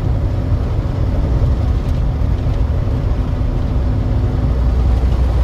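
Truck engine and road noise while driving: a steady low drone with a faint constant hum above it.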